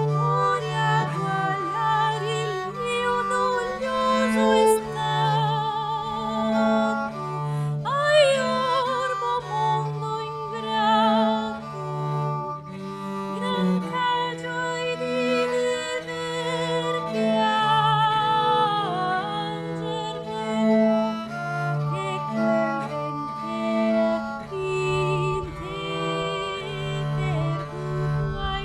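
Early Italian frottola performed live: a woman sings a melody with wide vibrato over long sustained notes from a low bowed string instrument.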